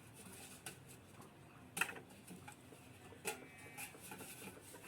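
Scattered light clicks and knocks of an old tin can being handled and set against bamboo, with two sharper knocks about two and three seconds in.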